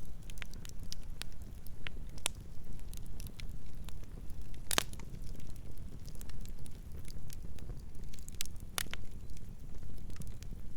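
Campfire crackling: scattered sharp wood pops over a steady low rumble of burning, with the loudest pop about halfway through and another strong one near the end.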